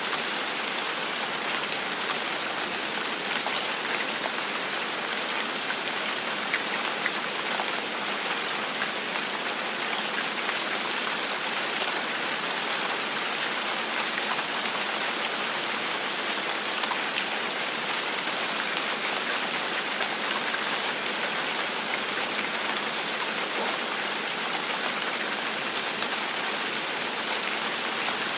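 Steady gentle rain falling on a surface, an even hiss with scattered individual drop ticks.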